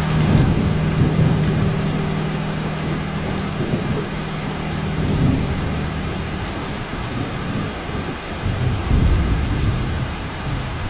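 Heavy rain falling steadily, with thunder rolling in low rumbles, one at the start and a stronger one about nine seconds in.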